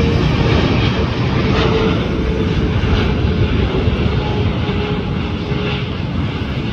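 Boeing 777-300 jet airliner's engines rumbling as it comes in to land, slowly fading.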